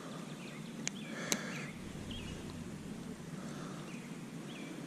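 Small birds chirping on and off over a steady outdoor background hiss, with two sharp clicks about a second in.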